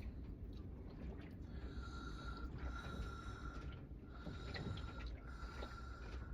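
A person eating close to the microphone: chewing and breathing through the nose, with small mouth clicks over a low rumble.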